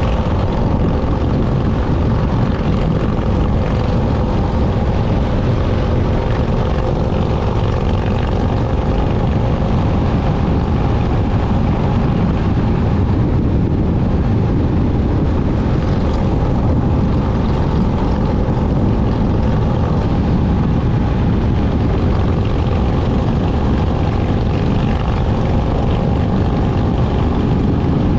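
Motorcycle engine running steadily under way, a constant drone with faint steady tones over a loud, even low rush of noise.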